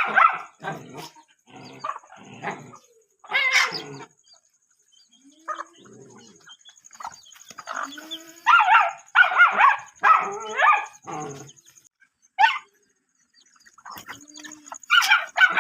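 Dogs barking in short bursts: several barks in the first few seconds, a quick run of barks a little past the middle, and more near the end.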